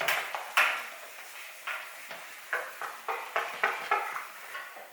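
Writing being erased from a board: two sharp knocks, then a run of short, quick rubbing strokes from the eraser.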